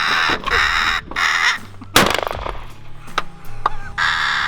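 Crows cawing in harsh calls, three times, then a single shotgun shot about two seconds in, with a couple of light clicks after it.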